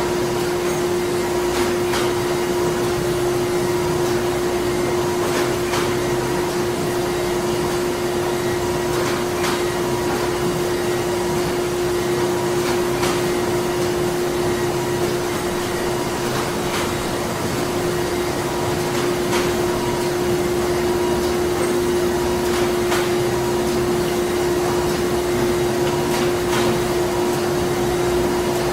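Printing-plant machinery running steadily: a constant drone with a strong steady hum tone and a fainter higher whine, with scattered light clicks every second or two.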